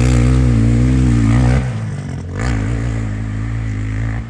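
KTM E5 electric mini dirt bike's motor whining under throttle, its pitch wavering up and down as the rider speeds over the track. Loudest for the first second and a half, then lower.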